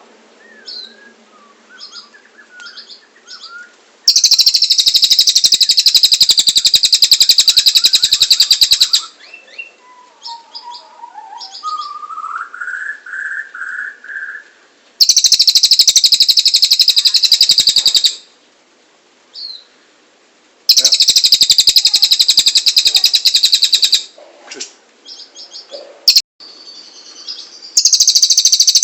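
Cililin bird singing: long, loud, very fast high-pitched trills of a few seconds each, four times, with softer chirps and a lower warbling phrase between them.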